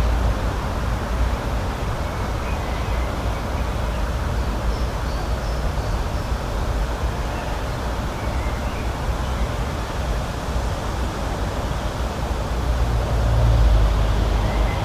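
Outdoor nature ambience: a steady noise with a deep rumble that swells near the end, and a few faint bird chirps.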